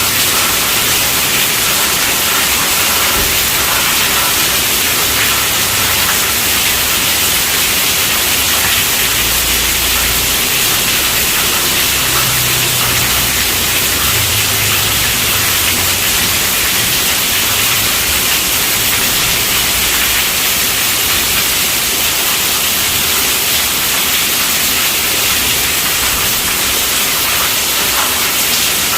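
Heavy rain drumming steadily on a tent roof, a dense, even hiss. A faint low rumble of distant thunder swells and fades through the middle.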